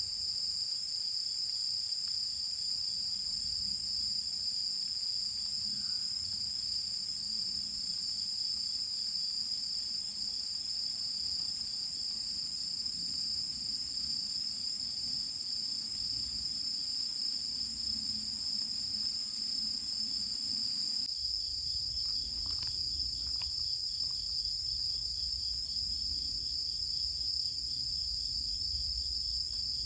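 Night chorus of crickets and other insects, a steady, unbroken high-pitched trilling from many callers at once. About two-thirds of the way through the mix of callers shifts and a faint low rumble comes in underneath.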